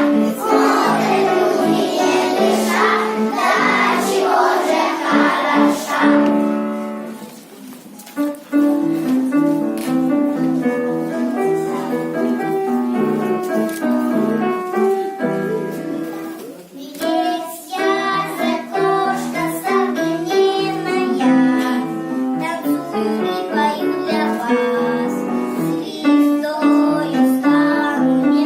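Children singing a song to piano accompaniment. The music drops off briefly about seven seconds in, then the keyboard music carries on.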